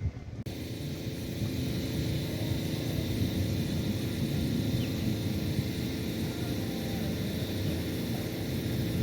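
Motorboat engine running steadily, a low drone that begins abruptly about half a second in.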